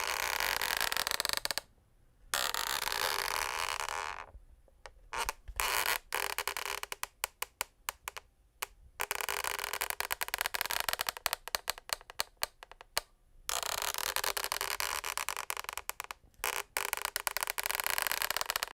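Wooden parquet floorboards creaking and scraping in long drawn-out stretches, some smooth and others breaking into rapid crackling ticks, with short pauses between them.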